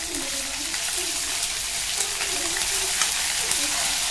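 Onions and ginger-garlic paste sizzling in hot oil in a kadai, with small crackles, while a silicone spatula stirs them.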